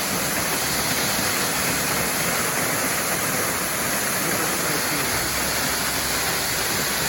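Waterfall rushing steadily: a constant roar of falling water.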